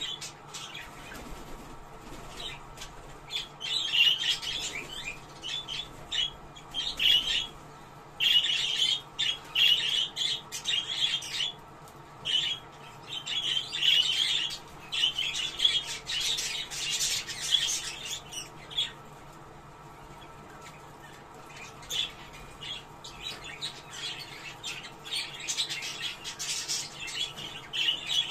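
Budgerigars chattering and warbling in quick scratchy bursts, the kind of budgie chatter played to bring birds into breeding condition. The chatter comes in runs with short breaks and a longer lull a little past the middle.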